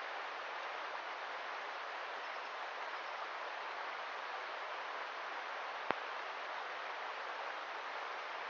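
Steady rush of flowing river water, with a single sharp click about six seconds in.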